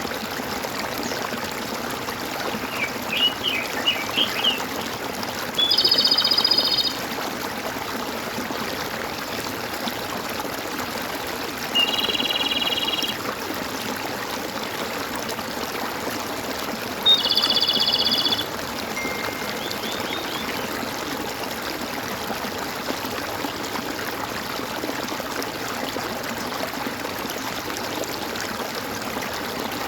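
A stream trickling and gurgling steadily, with a bird calling over it: a few quick chirps, then three loud buzzy calls, each about a second long, spaced roughly five to six seconds apart.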